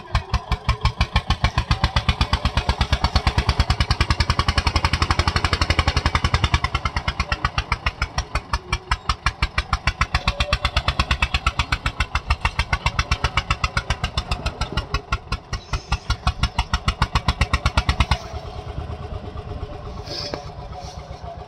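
Eicher tractor's diesel engine chugging hard under heavy load, a strong, even beat. About eighteen seconds in it drops sharply to a softer running sound.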